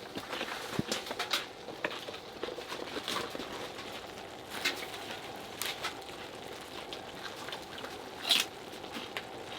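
Light handling sounds of food and containers being set out on a table: scattered small clicks and rustles, one a little louder near the end.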